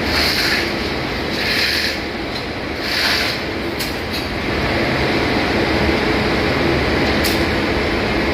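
Steady machinery noise of a ship's engine room, with short hissing pulses about every second and a half in the first few seconds and a couple of sharp clicks later.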